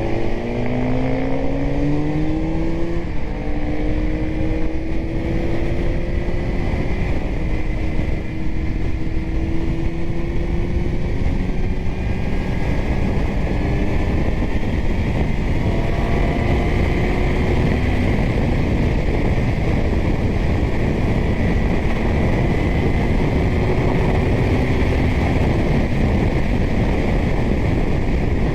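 Kawasaki Z900's inline-four engine through a titanium Arrow exhaust, pitch rising as the bike accelerates in the first few seconds, then holding steady at cruising speed. A heavy rush of wind and road noise runs under it.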